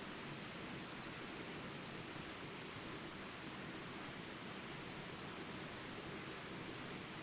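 Steady, high-pitched insect chorus over a faint, even hiss.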